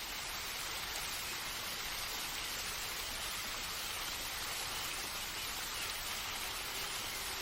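Steady, even rush of falling water, like a waterfall or stream ambience.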